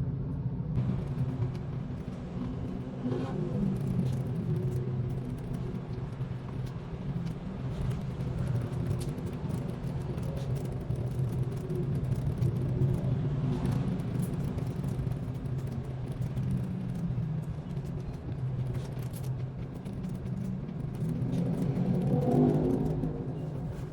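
A steady low rumble like a running engine, swelling louder near the end.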